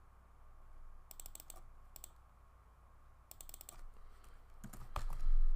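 Computer keyboard typing in short bursts of quick key clicks, followed near the end by a louder low thump.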